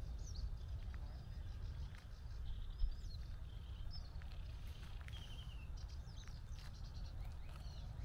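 Several small birds chirping and calling in short, high notes over a steady low rumble, with one sharp tap just before three seconds in.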